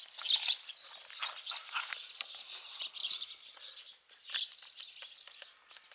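Small birds chirping in short quick notes. About four seconds in comes a run of three or four rapid rising notes.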